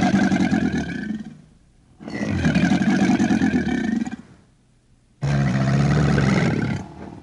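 Alligator calling: three long, deep growling calls of about two seconds each, separated by short pauses. The last call starts abruptly.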